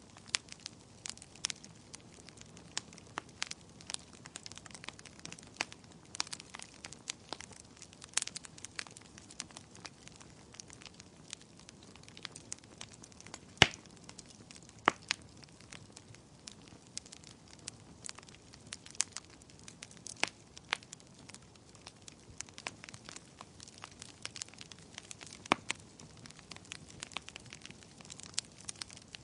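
Wood fire crackling in a fireplace: irregular sharp pops and snaps over a soft hiss, with one louder pop about halfway through.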